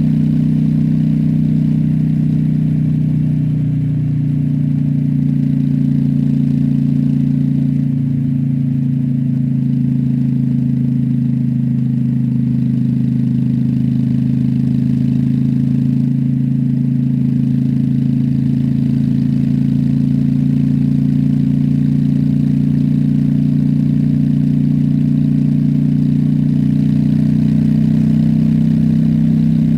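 Honda Shadow V-twin motorcycle engine running steadily under way at an even engine speed, with a slight change in its note about four and eight seconds in.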